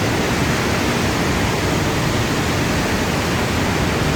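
Steady, loud rush of flash-flood water pouring down a canyon.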